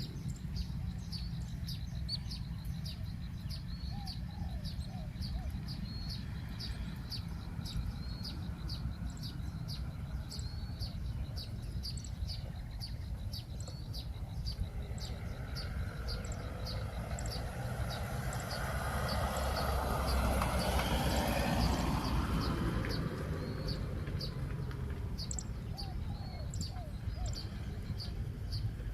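Spotted doves cooing in short phrases, about four seconds in and again near the end. Under them runs a high, even chirping, about two or three chirps a second. A broad rush of noise swells and fades a little past the middle.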